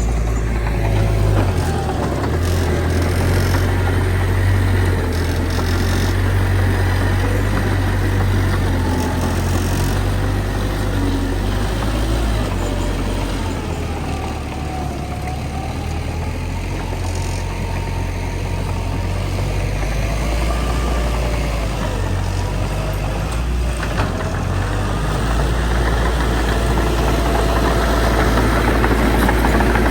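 Heavy diesel engine of earthmoving machinery running continuously with a deep rumble, its note rising and falling slightly and easing off for a moment around the middle.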